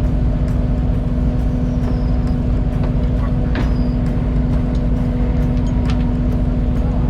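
Fishing boat engine running steadily at a constant speed: a continuous low drone with a steady hum, and a few faint ticks scattered through it.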